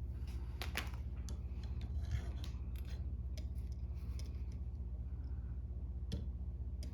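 Scattered light clicks and ticks of hands working thread and tools on a jig-tying vise, over a steady low hum.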